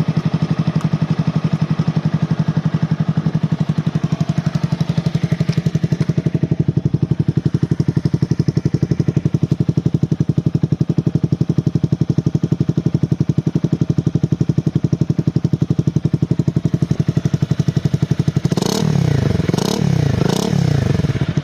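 Honda CBR250R motorcycle with an aftermarket muffler idling steadily, then revved in three quick blips near the end.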